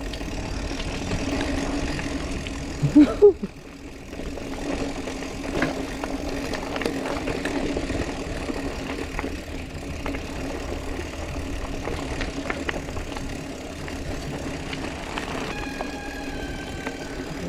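Bicycle riding down a dirt trail: steady rumble and wind noise with scattered small rattles and clicks. Near the end a bicycle brake squeals in a steady high tone for about two seconds as the rider brakes.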